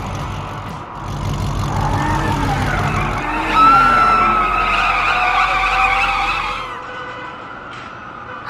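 Heavy vehicle engine running with a steady low rumble, then a drawn-out high squeal for about three seconds, after which the engine sound drops away.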